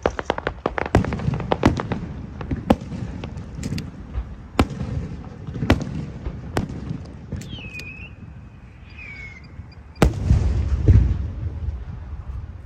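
Aerial fireworks going off: a rapid series of sharp cracks and pops, a brief falling whistle, then a loud bang about ten seconds in followed by rumbling.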